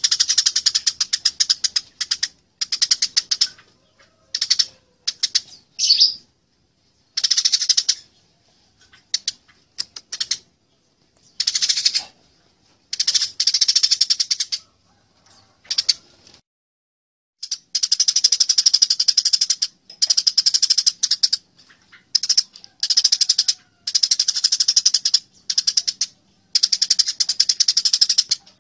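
Eurasian tree sparrows chattering in a fight: bursts of rapid, densely packed chirps, each burst lasting from a fraction of a second to a couple of seconds, with short pauses between and one longer pause a little past the middle.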